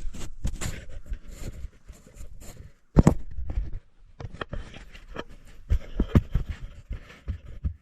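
Irregular clicks, knocks and scrapes of hands and tools working on a vehicle's shock-absorber mount, with one sharp knock about three seconds in.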